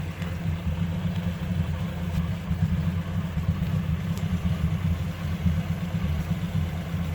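1957 Ford 841 tractor's gasoline four-cylinder engine running steadily on a newly fitted replacement carburetor, a low, even engine note.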